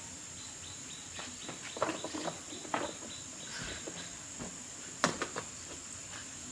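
Scattered light clicks and knocks, with one sharper click about five seconds in, over a steady high chirring of insects.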